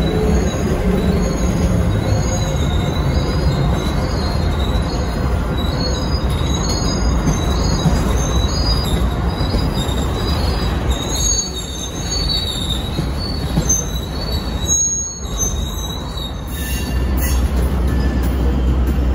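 Freight train rolling past close by: a steady low rumble of boxcars and loaded gondolas on the rails, with the wheels giving off many short, high squeals.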